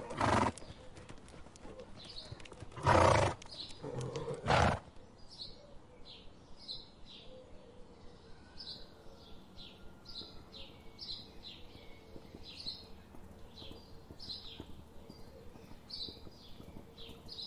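Horses: three loud, breathy snorts in the first five seconds, then a quieter run of short clicks, one or two a second.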